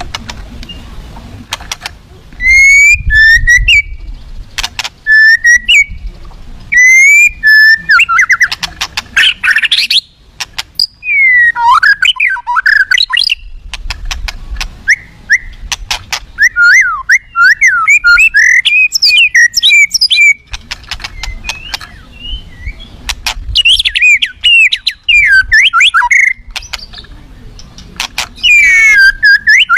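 White-rumped shama (murai batu) singing loudly in bouts of varied whistled and chattering phrases with short pauses between them, pouring out its repertoire of imitations. The loudest phrases are so close to the microphone that they distort.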